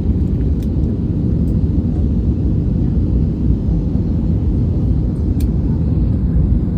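Steady low rumble of an airliner cabin: engine and airflow noise heard from inside the plane, even throughout.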